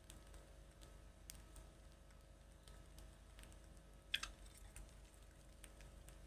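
Near silence with faint scattered clicks and ticks, and one short, sharper click about four seconds in.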